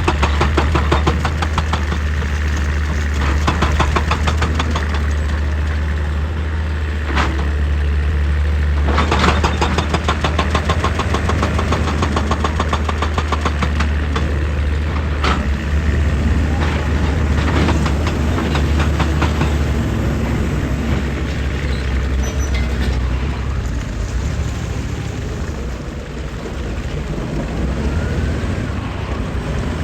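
Excavator's diesel engine running steadily under a heavy low drone, with stretches of rapid rattling and several sharp knocks of the machine working rock.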